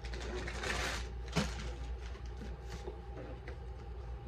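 Rustling as items are handled in a cardboard box, with a light knock about a second and a half in, over a steady faint hum.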